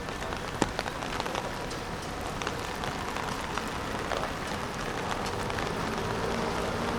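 Steady rain falling, a constant hiss with scattered sharp drop strikes, growing slightly louder near the end.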